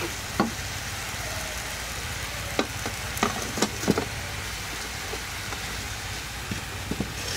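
Pig tongue and napa cabbage frying in a wok: a steady sizzle over a low rumble, with a handful of sharp clicks about two and a half to four seconds in.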